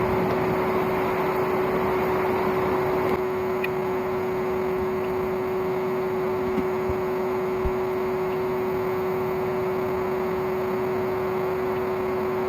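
Old vacuum cleaner motor running as the blower of a homemade coal forge: a steady whine over rushing air, dropping a little in level about three seconds in, with a few faint knocks.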